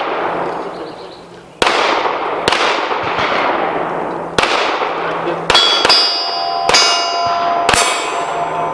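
Pistol shots at steel targets, about six or seven spaced under a second to two seconds apart, each with a long echo. From about midway, the hit steel plates ring with clear, lasting tones that carry on after the last shot.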